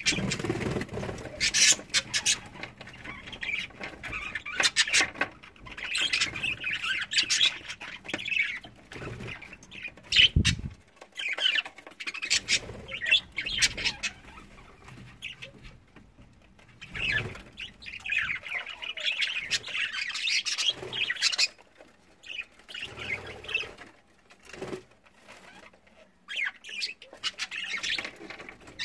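A flock of budgerigars chattering and squawking, with bursts of wing-flapping.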